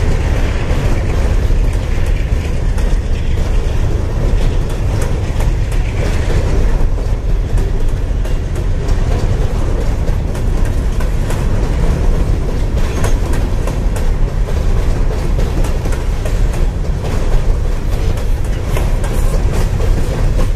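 Empty coal hopper cars rolling past: a steady low rumble of steel wheels on rail with scattered clicks.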